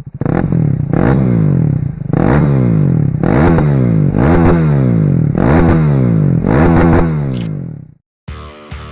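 Small-displacement sportbike engine revved in a series of about seven short throttle blips, roughly one a second. The pitch rises quickly on each and falls away more slowly. It stops suddenly near the end.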